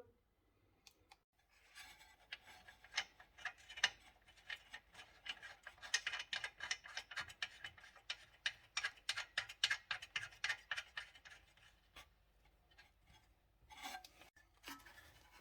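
Hand ratchet wrench clicking in quick, uneven strokes, dying away after about eleven seconds.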